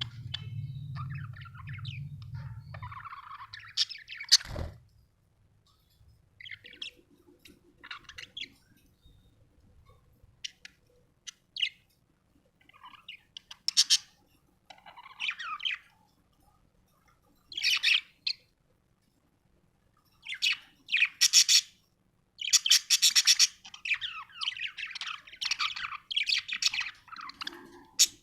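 Budgerigar chirping and warbling in short high calls, scattered with pauses at first and nearly continuous over the last third. A low hum runs for the first three seconds, and a sharp knock comes about four and a half seconds in.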